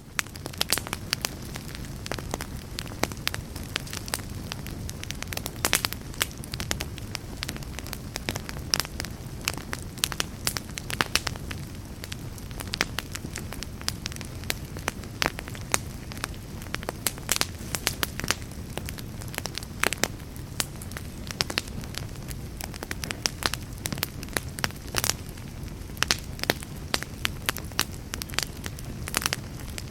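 Wood fire burning in a fireplace: logs crackling with frequent sharp pops and snaps over a steady low rush of flame.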